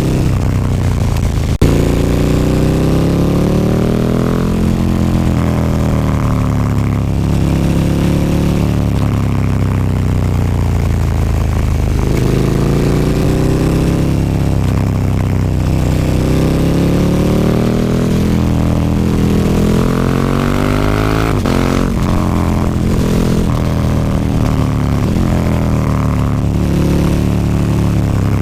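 KTM 1290 Super Duke R's 1301 cc V-twin through an Akrapovic slip-on exhaust without its dB killer. The engine revs up hard and eases off several times, the pitch climbing on each pull and dropping as the throttle closes. There is a single sharp click about a second and a half in.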